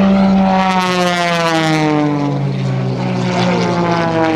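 Aerobatic propeller airplanes, an Extra 300S and an MX2 with Lycoming 540 engines, running loud with an engine-and-propeller drone whose pitch drops steadily. A second drone, also falling in pitch, comes in near the end.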